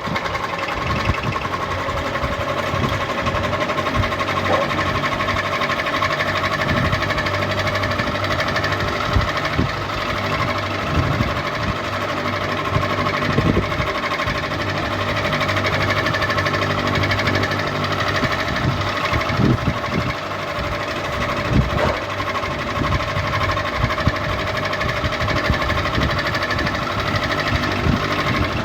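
Ceiling fan running, a steady hum with held tones over an irregular rattle of small knocks.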